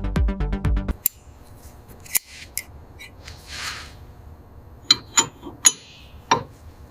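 Music with a steady beat that stops about a second in, then sharp metallic clinks and taps of hand tools on metal engine parts over a low rumble, with a short hiss in the middle.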